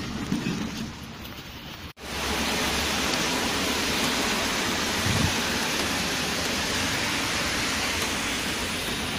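Steady, even hiss of rain, starting abruptly about two seconds in after a short stretch of rougher outdoor noise.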